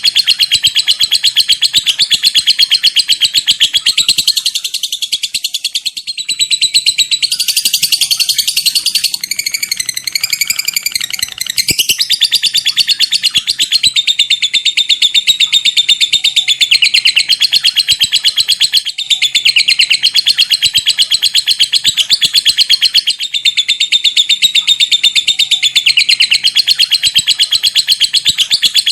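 Lovebird singing a long, unbroken "ngekek" chatter: a very fast, high-pitched stream of repeated harsh notes. Partway through, the notes briefly climb higher and vary more before the even chatter resumes.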